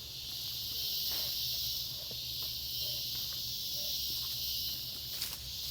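Steady, high-pitched rainforest insect chorus that swells and eases in slow waves, with a few faint clicks and rustles.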